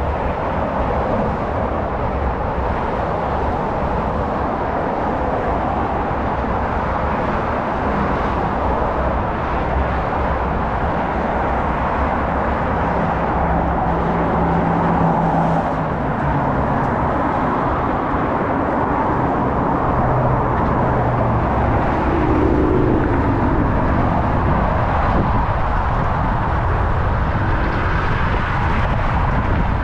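Steady road traffic noise, with one vehicle's low engine hum standing out about halfway through.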